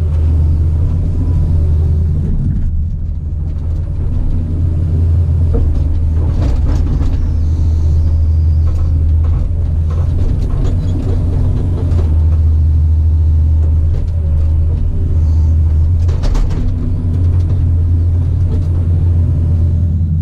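Heavy-equipment diesel engine running steadily with a deep, even hum, with a few brief clanks about a third of the way in and again later on.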